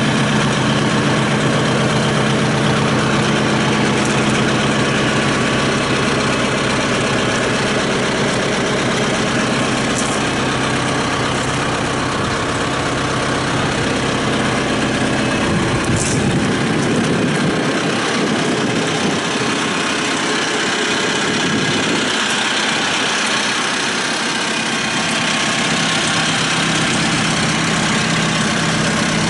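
Kubota M7060 tractor's four-cylinder diesel engine running, mostly at a steady idle; past the middle its note wavers and shifts for several seconds, then settles back to the steady idle.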